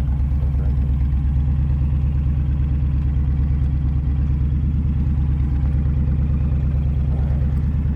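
Motorcycle engine running steadily as the bike is ridden, with an even, low pulse and no revving.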